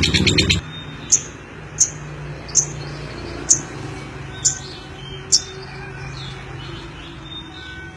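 A lovebird giving six sharp, high single chirps, evenly spaced a little under a second apart, with fainter calls between them over a low steady hum. A loud dense burst of sound cuts off abruptly about half a second in.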